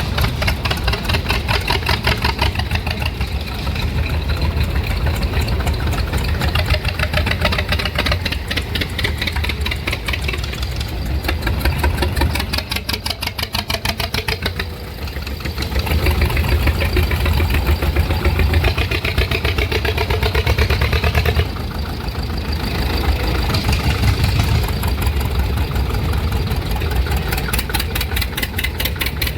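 Vintage tractor engines running with a rapid, even exhaust beat. The sound dips and swells again a couple of times as different machines come and go.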